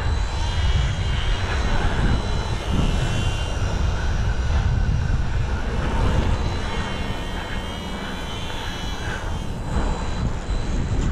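Strong wind buffeting the microphone, with the thin high whine of the UMX Radian's small electric motor and propeller wavering in pitch and coming and going as the plane flies overhead.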